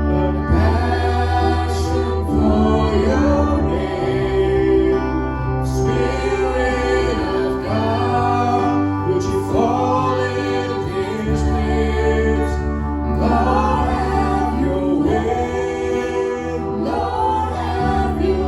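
Worship music with sung vocals over sustained keyboard chords and a low bass.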